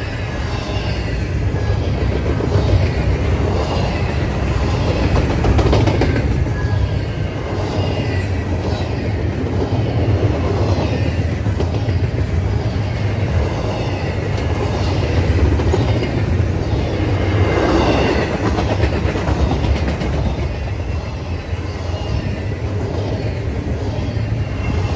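CSX intermodal freight train's double-stack container well cars rolling past: steel wheels on rail make a steady loud rumble, with rhythmic clacking swells as wheelsets pass and a faint thin squeal above.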